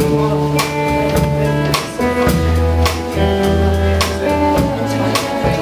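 Live band playing a folk song's instrumental intro: guitar and bass over drums keeping a steady beat, cutting in suddenly from silence.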